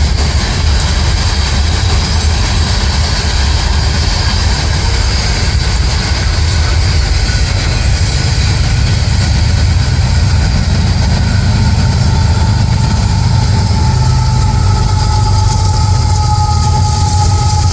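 Heavy rail equipment running steadily with a loud low diesel rumble. From about halfway through, a thin whining tone joins it and slides slowly lower.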